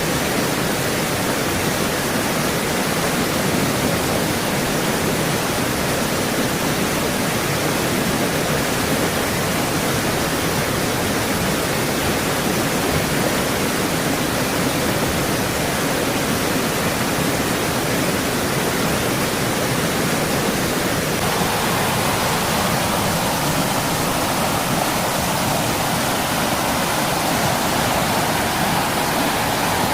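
Stream water flowing in a steady, full rush. About two-thirds of the way through, the sound of the water shifts slightly higher in tone.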